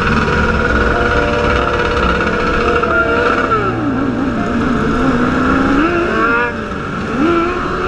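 Motorcycle engine running at high revs, its pitch dropping about three and a half seconds in, then climbing again twice as the throttle is opened.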